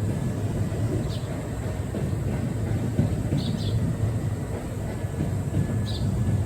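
Kintetsu 8000 series electric train running on the track: a steady low rumble.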